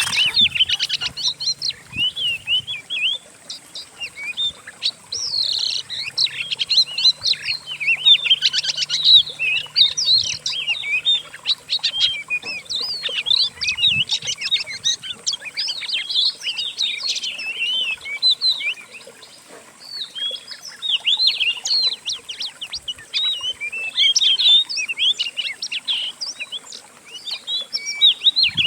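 Several songbirds singing together: a dense, unbroken run of quick, varied chirps and whistles, with a brief lull about two-thirds of the way through. It is a compiled mix of cage-bird songs.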